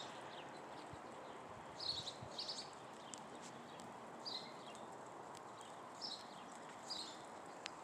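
Sparrows chirping: short high chirps in small clusters, several times, over a faint steady outdoor hiss.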